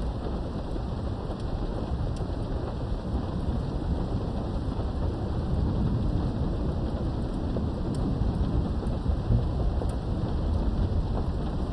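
Steady rain with a low rumble of thunder that grows stronger about halfway through.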